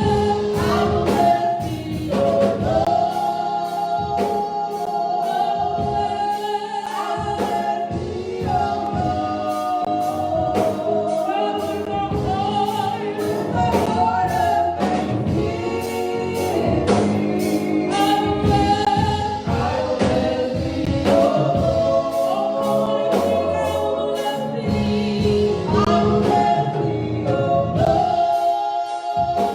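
Gospel music: a choir singing with instrumental accompaniment and a steady beat.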